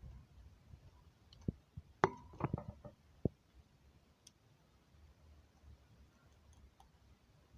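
A few sharp clicks and taps, most of them bunched together about two seconds in, over quiet room tone.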